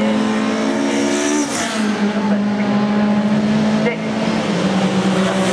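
Race car engines at high revs going past, the note holding steady and then stepping down a couple of times. One falls sharply in pitch near the end as it passes.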